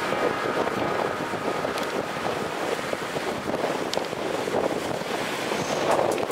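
Strong wind rushing and buffeting the microphone in a steady, unpitched roar, with a few faint clicks.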